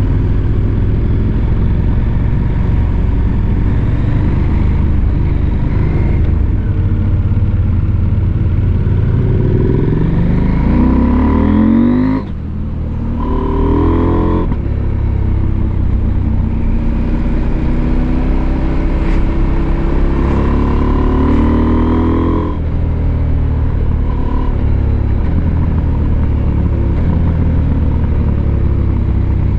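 Husqvarna Norden 901 motorcycle's 889 cc parallel-twin engine under way, pulling hard with the revs climbing twice, each climb cut off by an abrupt drop in revs, about 12 seconds in and again about 22 seconds in.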